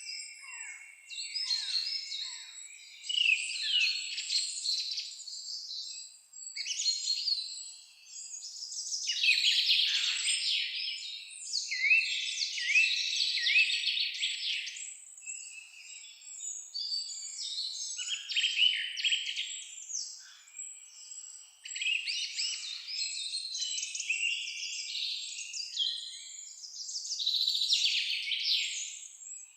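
Songbirds singing in a dense, overlapping chorus of high chirps, trills and falling whistled notes, with short lulls between bursts.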